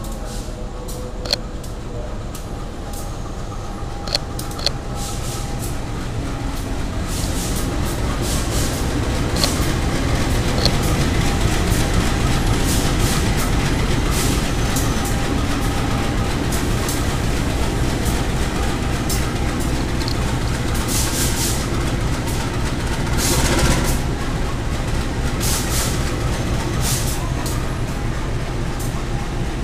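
Train hauled by a KAI diesel locomotive passing close along the platform: a steady low rumble that swells from about six seconds in and holds, with wheels clacking over rail joints through the middle.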